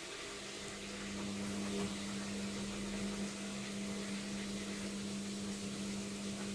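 LOGIK washing machine at the start of its final spin, giving off a steady, even hum that sets in just after the start.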